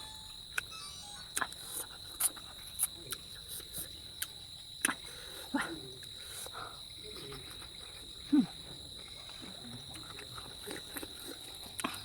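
Eating sounds: scattered short mouth clicks and smacks of someone chewing, with a short low hum that falls in pitch about eight seconds in. A steady high-pitched tone runs underneath.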